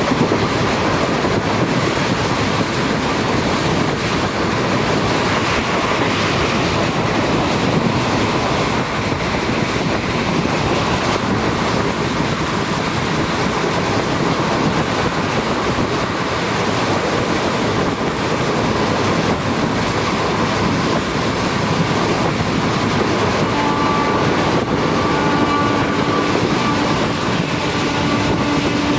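A moving train running on the rails: a steady rumble and rattle of wheels and carriages with a clickety-clack of the wheels over the track. A faint steady tone joins in over the last few seconds.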